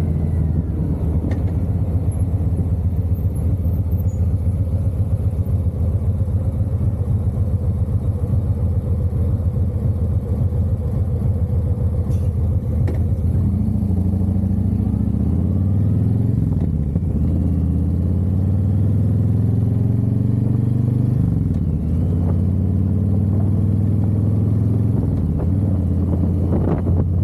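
Harley-Davidson V-twin engine running at road speed, its pitch rising as it accelerates in the second half, dropping suddenly at a gear change about three-quarters of the way through, then rising again.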